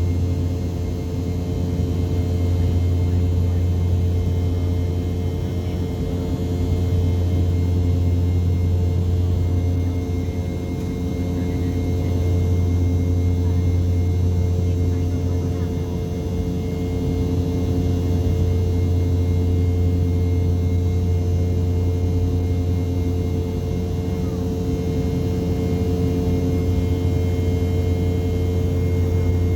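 Airliner cabin noise: a steady engine drone with a strong low hum and several fixed tones, swelling and easing slowly in level.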